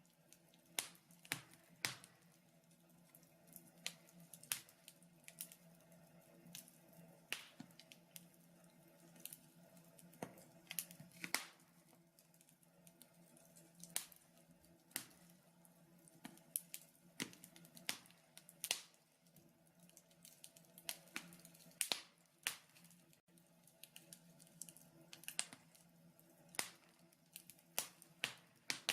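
Wood fire crackling in a fireplace: irregular sharp pops and snaps, a few each second, over a faint steady hum.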